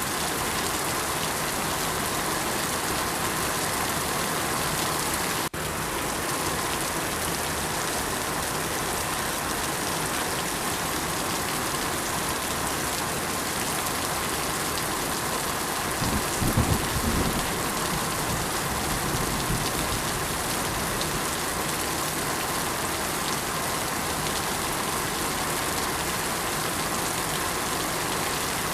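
Steady rain falling in an even, continuous hiss. There is a momentary dropout about five seconds in, and a short low rumble a little past halfway.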